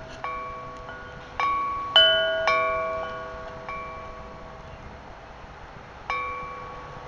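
Wind chimes ringing: about six separate strikes of several pitched metal tones, each fading slowly. The loudest strikes come about two seconds in, and a last one near the end.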